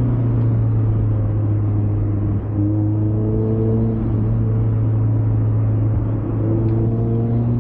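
Mazda MX-5's four-cylinder engine running steadily while driving, over a constant tyre and road rumble; the engine note steps up and climbs slightly a couple of seconds in.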